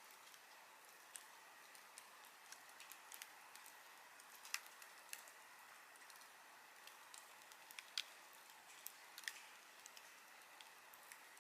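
Wood fire crackling faintly: a soft steady hiss with irregular sharp pops and snaps, the loudest about four and a half and eight seconds in.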